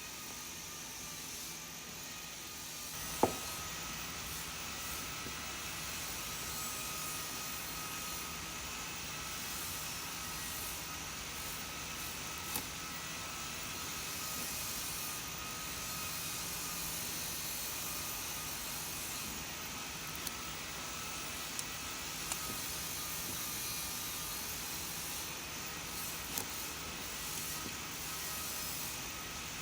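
An electric woodworking power tool running steadily: a hissing whir with a faint steady whine. A sharp click about three seconds in, and a few small ticks later.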